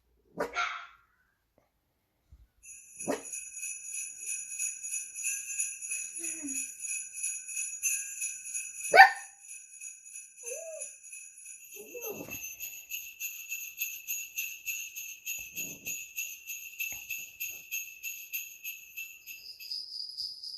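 Jingle bells shaken in a rapid, continuous jingle of several high ringing tones, starting about three seconds in; the bell tones change about twelve seconds in. A dog barks once near the start, and a single loud, sharp sound cuts through the jingling about nine seconds in.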